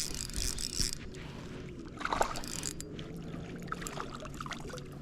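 Water sloshing and splashing around a kayak, with scattered small knocks and clicks.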